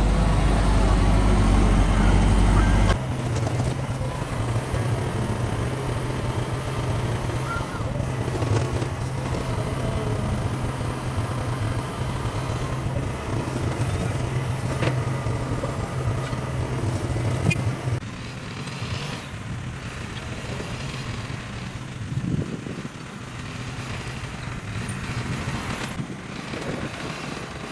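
Heavy machinery engine running steadily with a low, even hum; the sound changes abruptly about three seconds in and drops somewhat in level about two-thirds of the way through.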